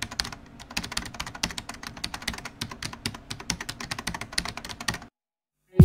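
Rapid computer-keyboard typing, a quick run of sharp key clicks that stops suddenly about five seconds in.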